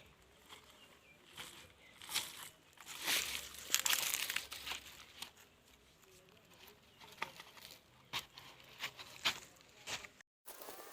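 Rustling and crinkling with scattered sharp snaps and clicks, busiest about two to four and a half seconds in, then sparser; the sound drops out briefly near the end.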